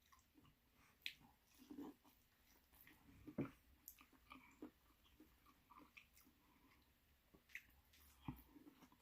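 Faint chewing: a person eating seafood-boil food, with scattered soft mouth clicks and smacks, the loudest about three and a half seconds in.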